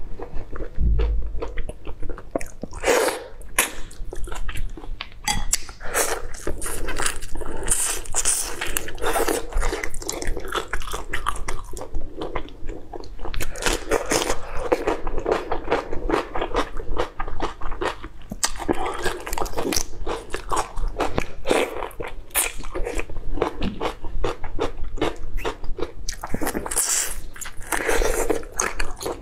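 Close-miked eating of raw shrimp: wet biting and chewing with a steady run of small crunchy clicks and crackles.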